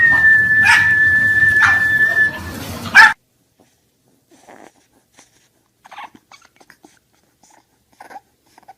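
A dog whining in one long, high, steady note that rises at the start and holds for about two and a half seconds, with a few short sharp sounds over it. A loud sharp sound comes about three seconds in, then the sound cuts off, leaving only faint scattered small noises.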